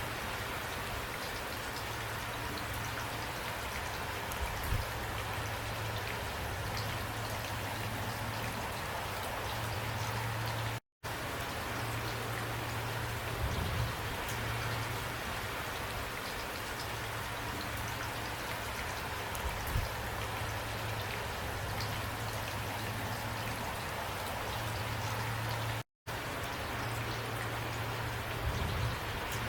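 Steady rain falling and spattering on surfaces, an even hiss with a few louder drops. Twice the sound cuts out completely for an instant, about eleven and twenty-six seconds in.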